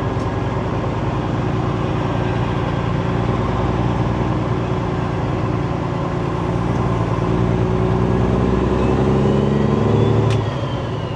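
Semi truck's diesel engine pulling under load, its note climbing steadily for several seconds, then dropping off abruptly about ten seconds in. A faint whistle rises and falls just before the drop.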